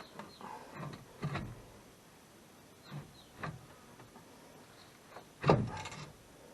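A few separate knocks and clunks, the loudest about five and a half seconds in with a short ring after it.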